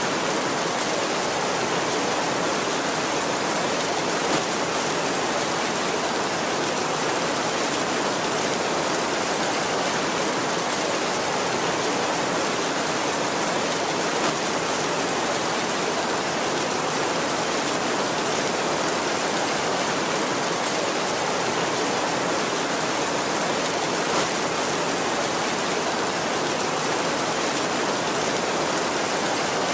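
Heavy rain falling steadily on a tin roof, a dense even hiss with no thunder, and a slightly louder tap about every ten seconds.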